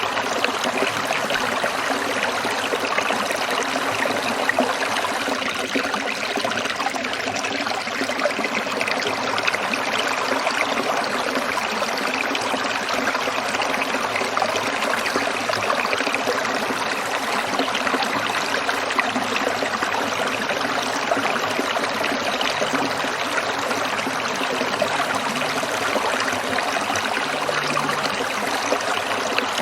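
Stream water trickling and splashing steadily over stones, a continuous even rush without pauses.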